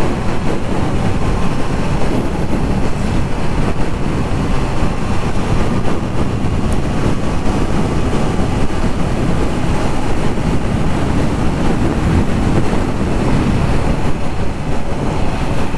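Steady wind rush and road noise on the microphone of a Triumph Trident 660 three-cylinder motorcycle riding at highway speed, with the engine running under it.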